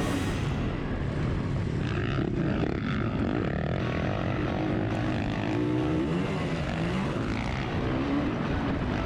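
Honda CRF450RX motocross bike's single-cylinder four-stroke engine running hard on track, its pitch rising and falling repeatedly as the throttle is worked through the corners and jumps.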